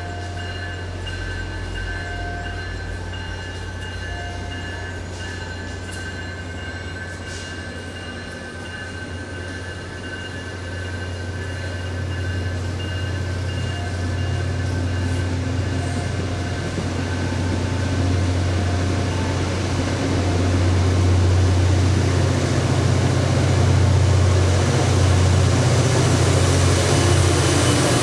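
Train rolling by, its low rumble growing steadily louder as it comes closer, with thin high squealing tones from the wheels coming and going.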